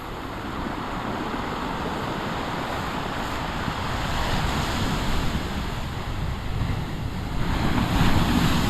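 Big waves breaking and washing ashore: a steady rush of surf that swells about four seconds in and again near the end, with wind rumbling on the microphone.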